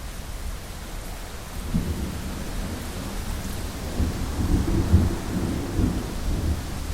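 Steady rain hiss with a roll of thunder rumbling in about two seconds in, swelling to its loudest around the middle and fading away near the end.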